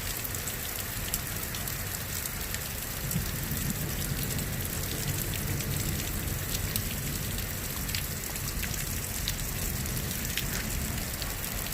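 Steady rain falling during a passing thunderstorm, with scattered ticks of individual drops.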